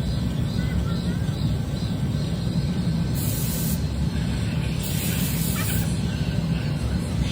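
Short bursts of compressed-air hiss from a powder coating spray gun, about a second long, twice, over a steady low drone of shop machinery.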